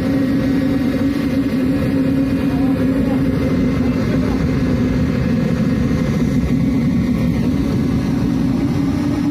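Student-built model ramjet engine running: a loud, steady roar with a constant droning hum.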